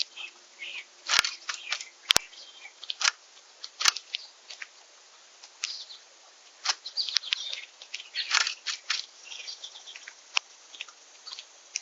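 Small songbirds at a backyard feeder giving short, high chirps and call notes, scattered irregularly, with sharp clicks and taps mixed in; the loudest clicks come about one, two and four seconds in.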